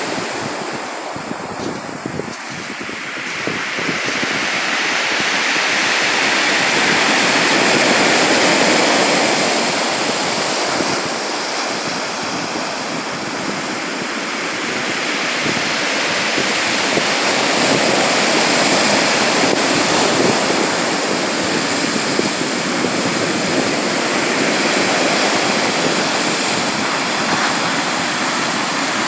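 Sea surf: waves washing in as a continuous rushing hiss that swells and eases slowly every several seconds.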